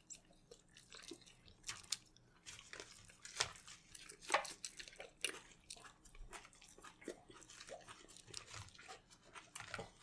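Close-up eating sounds of someone chewing fries: irregular crunches and wet mouth clicks, a few of them louder.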